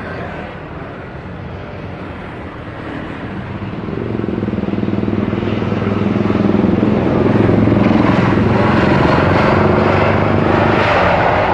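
Large passenger jet's engines, a low steady hum under a rushing noise that grows louder about four seconds in and stays loud as the aircraft passes.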